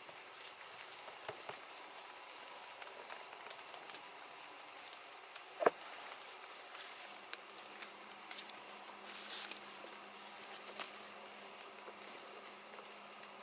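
Forest insects droning steadily at a high pitch, with scattered small clicks and rustles and one sharp knock about six seconds in.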